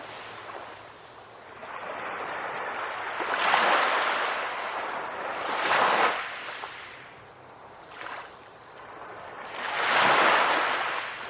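Ocean waves washing onto a shore. The surf hiss swells and ebbs in three surges, the loudest about ten seconds in.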